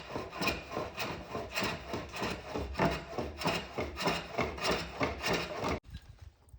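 Rhythmic rasping strokes of a cutting tool working a piece, about two strokes a second, stopping abruptly near the end.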